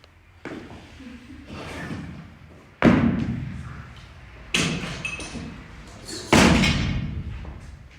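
Three heavy thuds about two seconds apart, each ringing out in a large room, from workout weights being dropped onto the gym floor during reps. A lighter knock comes just before them.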